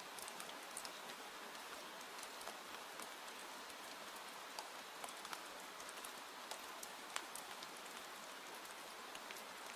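Steady rain with a few scattered sharp ticks and pops.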